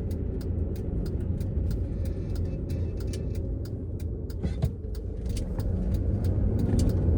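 Road and engine noise heard from inside the cabin of a 2005 Land Rover Freelander on the move: a steady low rumble with scattered light ticks, growing a little louder over the last couple of seconds.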